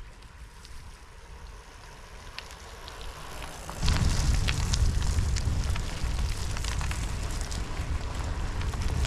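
Rain ticking and crackling on the microphone of a moving bicycle. About four seconds in, wind buffeting jumps to a loud low rumble and stays loud, with sharp raindrop clicks over it.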